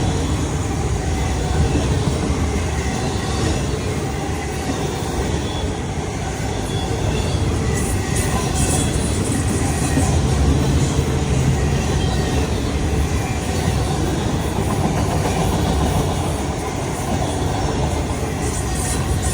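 Cars of a CSX autorack freight train rolling past at steady speed, a continuous rumble of steel wheels on rail with clickety-clack over the rail joints.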